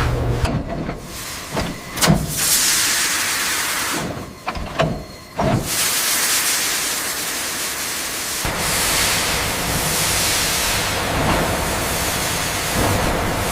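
Steam hissing from a steam locomotive, broken by a few short sharp knocks in the first half. A low steady rumble joins the hiss about eight seconds in.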